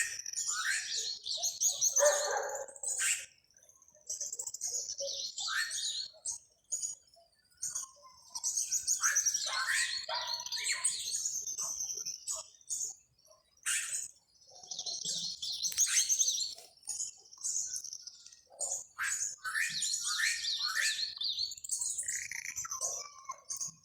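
Songbird singing in repeated bouts of fast, high trills and chirps, each a few seconds long with short pauses between.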